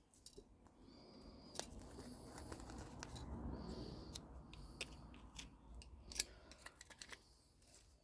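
Faint snipping and clicking of hand cutters working through the copper windings of a microwave oven transformer, a few sharp snips spread over a low rustle.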